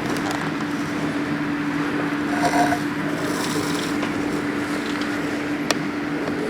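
Strong typhoon wind rushing steadily, with a low steady hum underneath and one sharp knock near the end.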